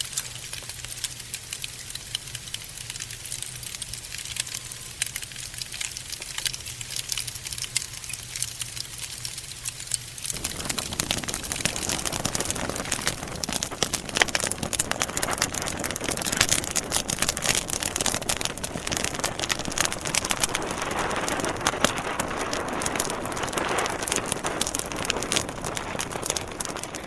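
Burning logs crackling and popping in a wood fire, dense irregular snaps throughout. About ten seconds in a low hum drops away and the crackle becomes louder and fuller.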